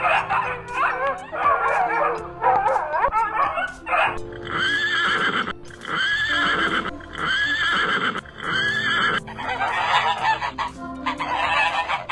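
Animal calls over background music: a run of wavering calls, then four similar arched calls about a second apart, then a noisier stretch of calling near the end.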